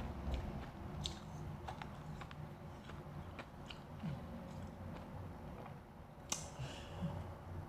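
Close-miked chewing of refrozen powdery ice: irregular small crunches and crackles, with one sharper crunch about six seconds in.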